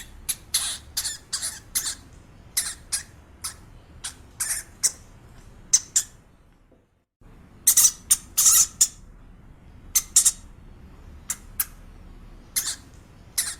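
A small animal's short, high-pitched chirping calls in irregular quick runs, broken by a brief total silence about seven seconds in.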